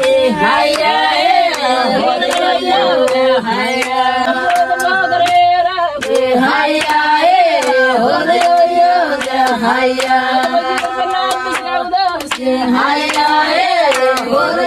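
A Datoga tribal song sung in a steady chant-like melody, with sharp hand claps recurring through it.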